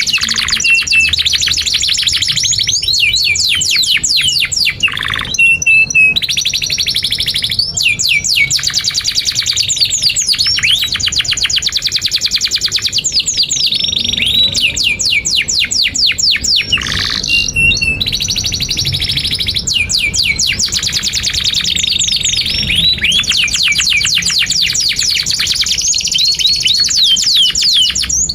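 Domestic canary singing a long, nearly unbroken song of rapid high trills. The song switches to a new trilled phrase every few seconds.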